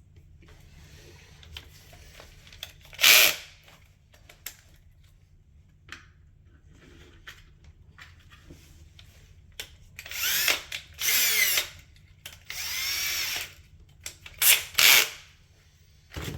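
Power drill running in short bursts, its motor whine rising and falling as it spins up and slows: one burst about three seconds in, then five more close together in the second half. It is drilling into red oak cabinet doors for the hardware.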